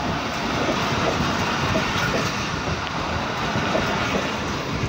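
Pakistan Railways passenger coaches rolling past a station platform, their wheels clattering steadily over the rail joints as the train arrives.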